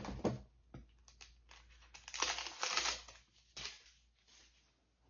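Packaging being opened by hand: a few sharp clicks, then crinkling and rustling, loudest for about a second a couple of seconds in, with a shorter rustle later.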